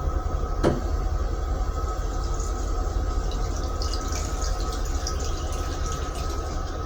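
Toilet in a railcar restroom flushing: a sharp click about a second in, then rinse water hissing for about four seconds, over the train's steady rumble.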